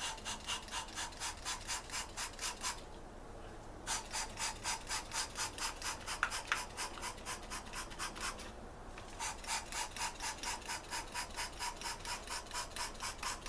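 Quick, rhythmic squirts of water from a hand spray bottle, about four to five strokes a second in three runs with two short pauses, filling the cylinder head's exhaust ports to leak-test the lapped valves.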